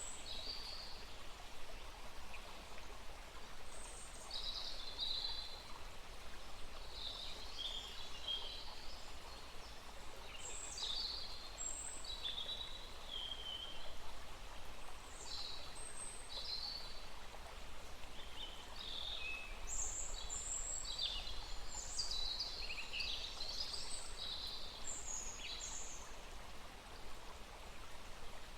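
Several songbirds chirping and singing in short, high phrases over the steady rush of a small forest stream. The birdsong grows busier about two-thirds of the way through.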